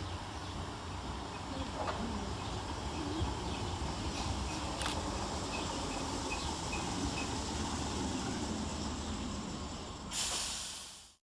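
Class 313 electric multiple unit arriving at the station, a steady rumbling train noise with a few faint clicks. About ten seconds in there is a short loud hiss, then the sound cuts off abruptly.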